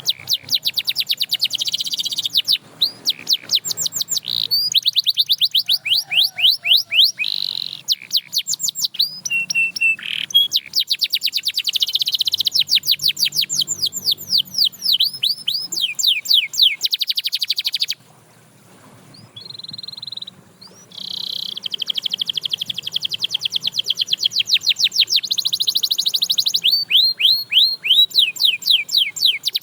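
Canary singing: long, rapid trills of repeated high, falling notes, one run after another, with a brief pause about eighteen seconds in.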